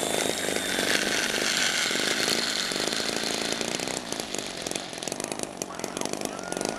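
Small engine of a radio-controlled model Cessna running with a steady buzz, louder for the first few seconds and a little quieter after about four seconds.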